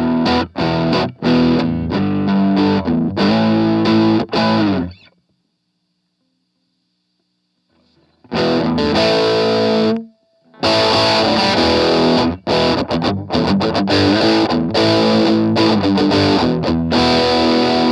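Electric guitar, a Gibson SG Special with humbucker pickups, played through an MXR Custom Badass Modified O.D. overdrive pedal: distorted chords and riffs. The playing stops for about three seconds around the middle, starts again, breaks off briefly, then carries on.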